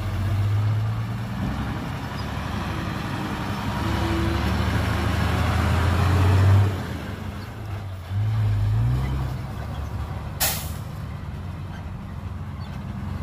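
Heavy dump truck's diesel engine working, getting louder toward about six seconds in, dropping, then revving up again, with a short sharp air-brake hiss about ten seconds in.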